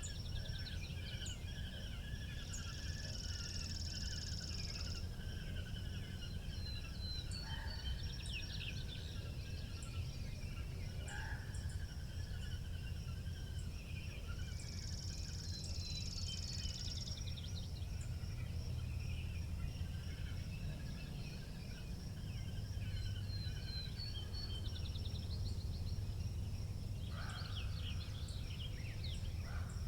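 Steady low wind rumble with small birds chirping and trilling over it, and a high buzzing trill twice, about three seconds in and again about fifteen seconds in.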